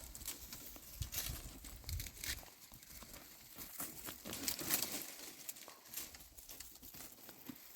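Irregular rustling and crackling: a run of short scratchy noises.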